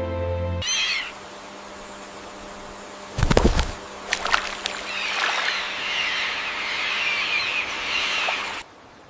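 Bird sounds over a steady background haze: a brief chirp about a second in, a low thump with a few clicks around three seconds, then a long stretch of busy, high-pitched bird chatter that cuts off suddenly near the end. It opens with the last moment of a steady held tone.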